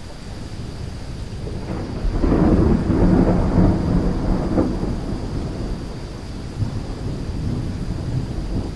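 Thunderstorm with steady rain. A roll of thunder swells about two seconds in, rumbles for about three seconds and dies back into the rain.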